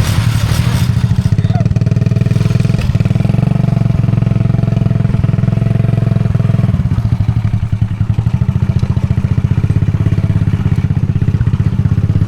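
Small motorcycle engine running under way, its firing an even, rapid pulse. It eases off slightly about seven seconds in.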